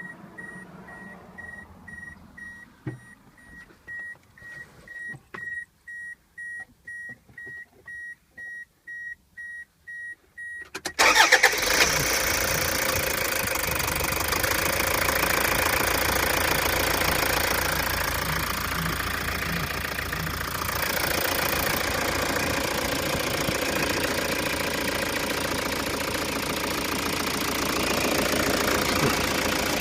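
Toyota HiAce 3.0-litre diesel engine starting about a third of the way in and then idling steadily with diesel clatter. Before it starts, a high electronic beep repeats about twice a second.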